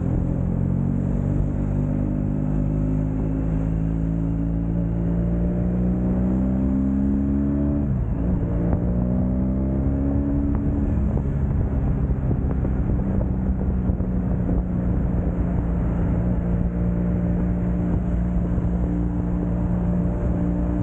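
Motorcycle engine accelerating, its pitch climbing, then dropping sharply as it shifts up about eight seconds in. It climbs again briefly and then holds a steady cruising note.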